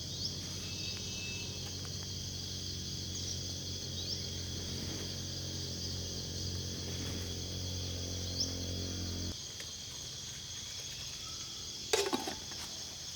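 Steady high-pitched chorus of crickets, under a low steady hum that cuts off suddenly about nine seconds in. A brief sharp sound comes near the end.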